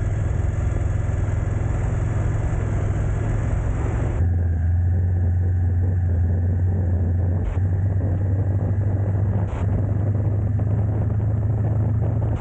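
A motor vehicle's steady low engine and road rumble. About four seconds in, the higher part of the sound drops away suddenly while the low drone carries on.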